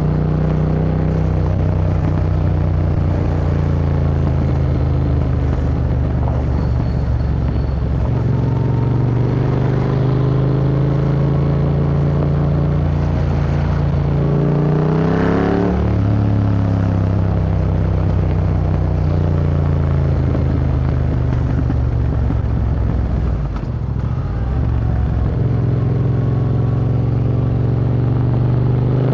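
Yamaha MT-07's 689 cc parallel-twin running through an Akrapovic Racing Line exhaust under way, revs rising and falling steadily; about halfway through the pitch drops and climbs back, and it climbs again near the end.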